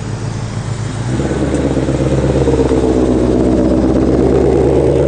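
Car engine running close by, getting louder about a second in and holding a steady, deep note.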